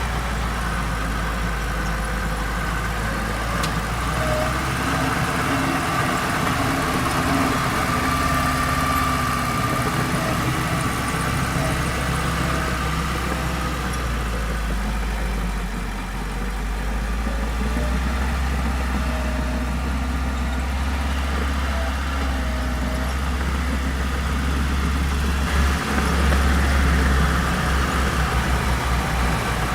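Diesel engine of heavy earthmoving machinery running steadily with a low rumble and a thin high whine; the engine note swells briefly near the end.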